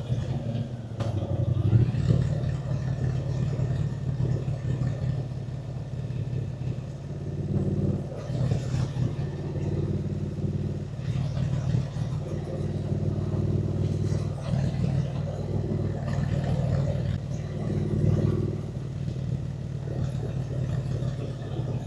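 Triumph Speed Twin 900's parallel-twin engine running while the motorcycle is ridden, its note rising and falling every second or two as the throttle is opened and eased off, over a steady rush of wind and road noise.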